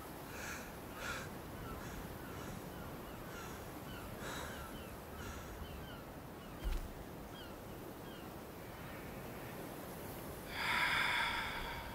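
Outdoor bird calls: a run of short calls about twice a second at the start, then faint high falling chirps, and one louder, longer call near the end. A single soft knock comes a little past halfway.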